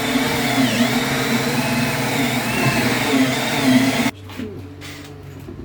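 Electric drill running steadily, then cutting off abruptly about four seconds in, with a fainter hum carrying on after.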